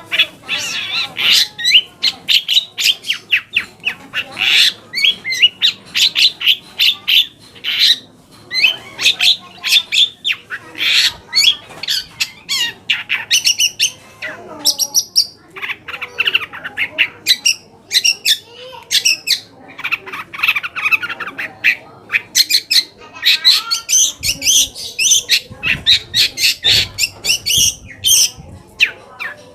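Long-tailed shrike (cendet) singing a busy song of harsh, chattering notes and mimicked phrases, in quick runs of notes with brief pauses.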